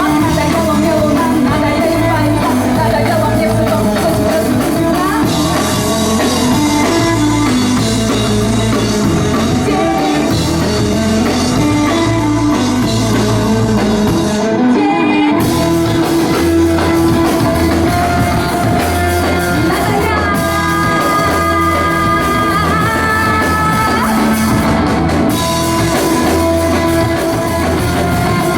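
Rock band playing live with a singer, a bass line stepping under dense guitar. The band drops out briefly about halfway through, then comes back in.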